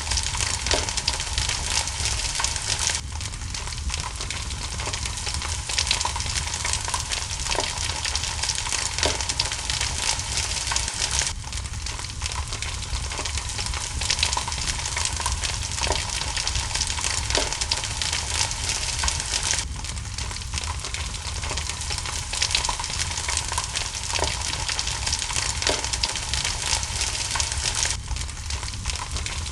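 Wood fire crackling in a fireplace, with sharp pops every second or two over a steady hiss of rain.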